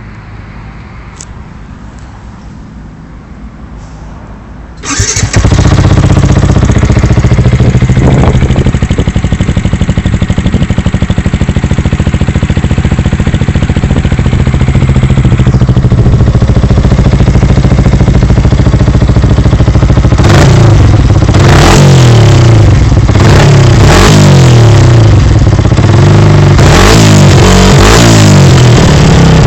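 Yamaha YZF-R125's 125 cc single-cylinder four-stroke engine, breathing through a Termignoni aftermarket exhaust, starts about five seconds in and runs steadily. From about twenty seconds in it is blipped in repeated short revs, about one a second.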